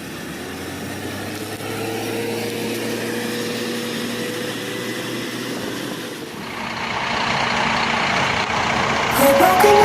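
Diesel engine of a Scania double-decker coach running steadily, with a low hum and a faint held whine, then growing louder with broad mechanical noise from about six seconds in. Background music starts near the end.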